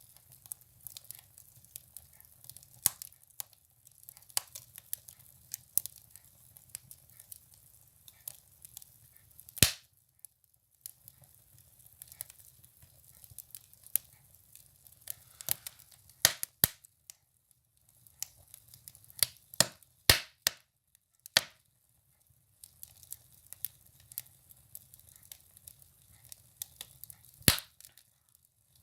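Firewood burning in a wood stove, crackling with irregular sharp pops and snaps, a few of them much louder than the rest.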